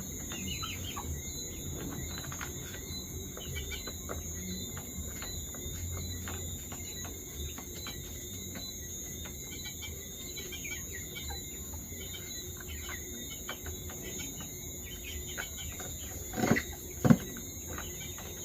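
Chickens clucking and chirping in their coop, with a steady high-pitched drone of crickets behind. Near the end come two short, loud sounds in quick succession.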